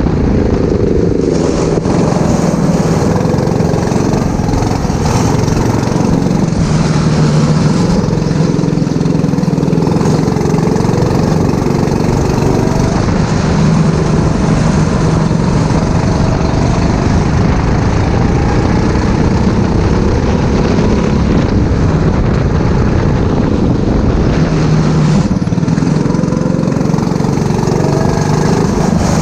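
Four-stroke racing kart engine running hard, its pitch rising and falling over and over as the kart accelerates and lifts around the circuit.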